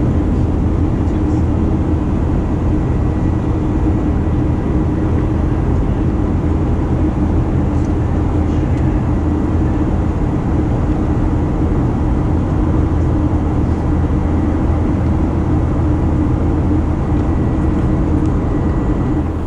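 Cabin noise of a Boeing 737-900ER in flight: the CFM56-7B turbofans and airflow making a loud, steady rush with a faint steady whine.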